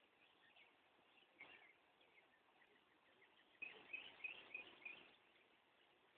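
Near silence with faint birdsong: a few short high chirps about a second and a half in, then a quicker run of chirps from about three and a half to five seconds in.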